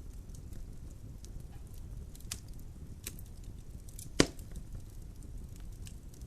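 Logs burning in a fireplace, crackling, with a steady low rumble from the fire and scattered small pops. One loud, sharp pop comes about four seconds in.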